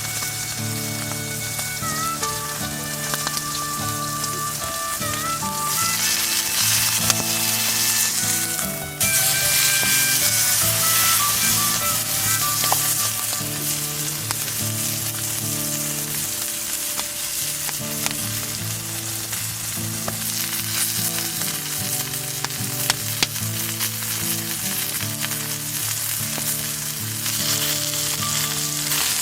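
Food sizzling as it grills over a fire, a steady crackling hiss that grows louder about six seconds in and eases off a few seconds later. Background music plays underneath.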